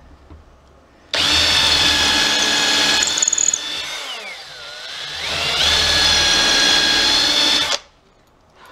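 Power drill running into wood at full speed, then slowing with a falling whine as it comes under load and speeding back up, before stopping abruptly about a second before the end.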